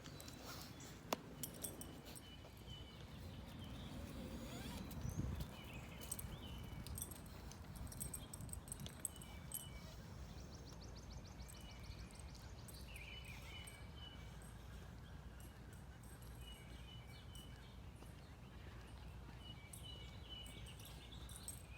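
Wild birds chirping at intervals, with a dog's metal collar tags jingling softly as it walks.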